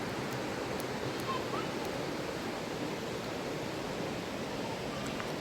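Steady rushing of a river's flowing water, heard faintly and evenly.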